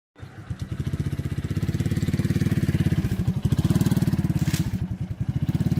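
A small engine running steadily with a rapid, even putter, with a short hiss about three quarters of the way through.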